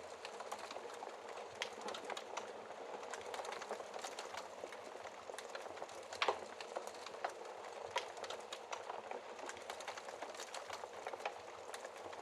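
Wood fire crackling in a fireplace: a steady soft hiss with irregular sharp pops and snaps, the loudest pop about six seconds in.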